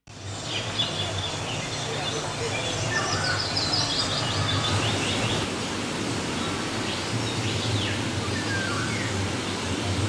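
Outdoor field sound: small birds chirping in two bursts of quick rising and falling notes, over a steady background hiss with a low hum.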